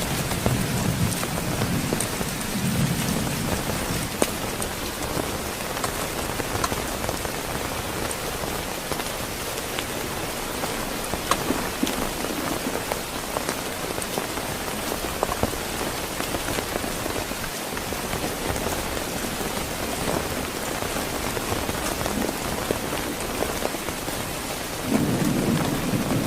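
Heavy rain falling steadily, with individual drops ticking on a surface. Low rumbles of thunder sound in the first few seconds and return louder near the end.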